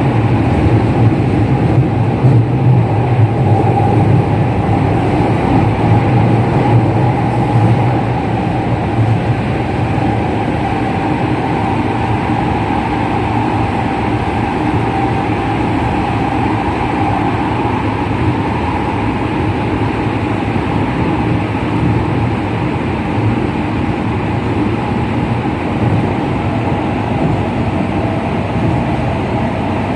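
JR West 207 series electric train running at speed, heard from on board: a steady rumble of wheels on rail with an even tone from the original, unreplaced traction motors.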